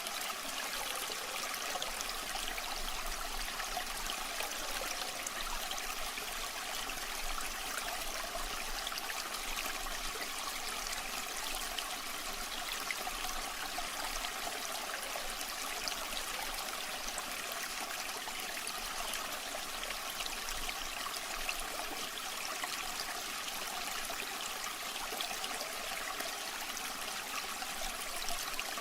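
Waterfall water rushing and splashing in a steady, even hiss, with little deep rumble.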